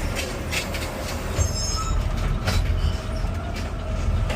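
Garbage truck engine and hydraulics running under load as the automated side-loader arm works a plastic cart. There is a brief high-pitched squeal about a second and a half in and a few knocks.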